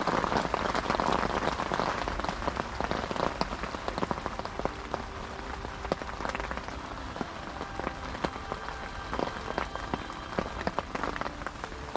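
Heavy rain falling, with a steady hiss and many separate drop hits.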